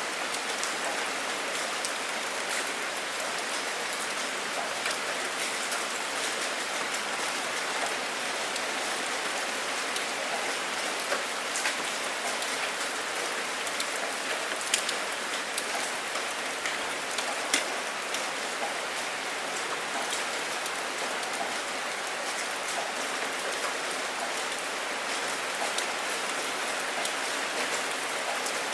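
Steady rain falling on a surface, an even hiss with a few louder individual drop splats standing out, three of them in the middle of the stretch.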